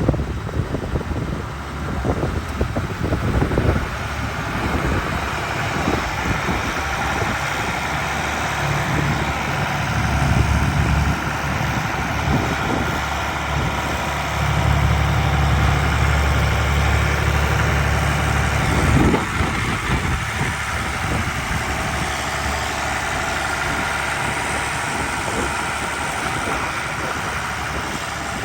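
John Deere 3130 tractor's diesel engine running steadily at idle. The low engine note grows heavier for a couple of stretches, about a third of the way in and again around the middle.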